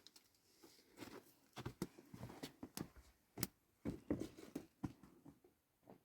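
A series of faint, irregular light taps and knocks.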